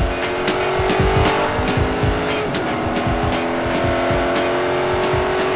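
Racing sports car engine accelerating on a track, its note climbing slowly and steadily, over background music with a steady drum beat.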